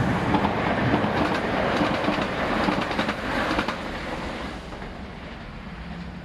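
A small steam saddle-tank locomotive and its brake van rolling past, wheels clicking over the rail joints, the sound fading as the train moves away.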